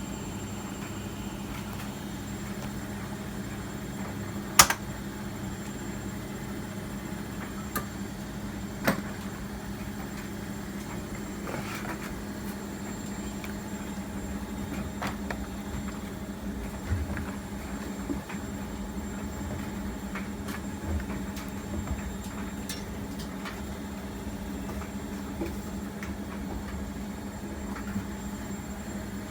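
Miele MedicWash W2585 washing machine running with a steady hum, broken by scattered clicks and knocks, the loudest about four and a half seconds in and another about nine seconds in.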